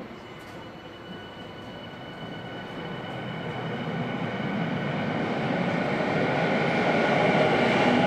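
Electric commuter train pulling into an underground station platform, its running noise and a steady high whine growing louder as it approaches.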